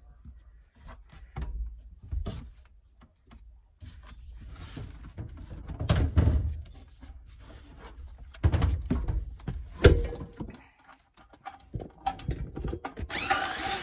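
Irregular knocks, thuds and clatter from hands-on work installing an air handler: metal panels, straps and screws being handled and fastened. A short, louder noisy burst comes near the end.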